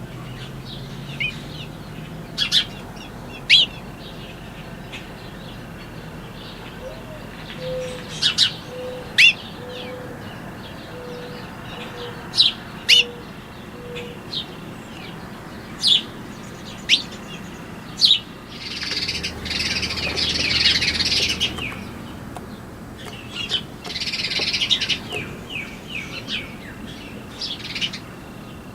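Small birds chirping: short, sharp chirps that fall in pitch, every second or two, with two spells of dense chattering about two-thirds of the way through.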